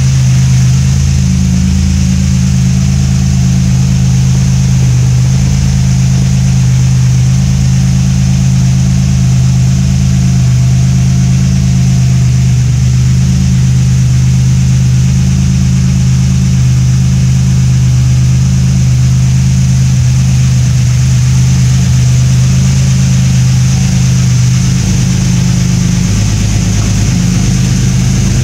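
Car engine idling steadily while warming up after a cold start, with a deep even note; the idle note shifts slightly near the end.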